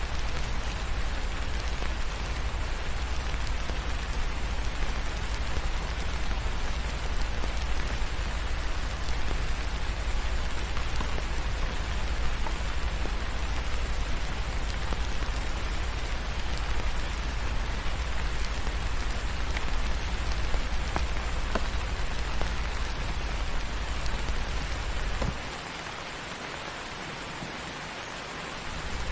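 Steady rain ambience, an even hiss over a deep low rumble, with a few faint clicks. Near the end the low rumble cuts out and the sound drops noticeably quieter for a few seconds, then comes back.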